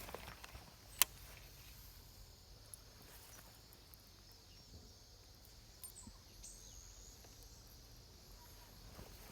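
Quiet outdoor ambience with faint high bird chirps and a low rumble, broken by a single sharp click about a second in.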